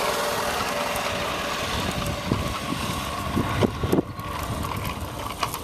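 Massimoto MB200 mini bike's small single-cylinder four-stroke engine running as the bike rides, growing fainter as it moves away, with a few brief knocks a little past the middle.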